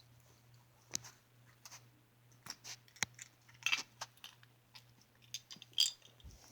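Irregular small clicks, taps and crackly rustles of die-cast toy cars being picked up and handled, over a faint steady low hum.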